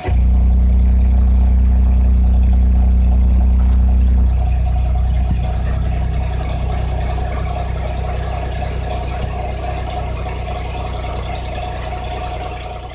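Suzuki Jimny JB23's 660 cc K6A three-cylinder engine idling steadily; its sound drops a step in level about four seconds in.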